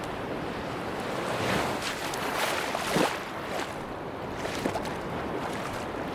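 Sea waves washing onto a beach, one wave swelling up and breaking about three seconds in, over a steady wash of surf.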